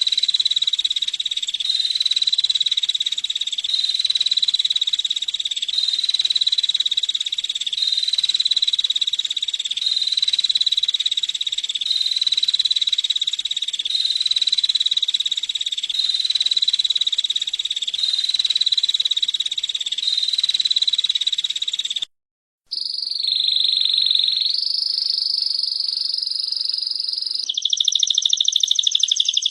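Female prenjak (prinia) giving a rapid, buzzing trill over and over, repeating about every two seconds like a looped recording. It breaks off for a moment about 22 seconds in, and other bird trills follow at changing pitches.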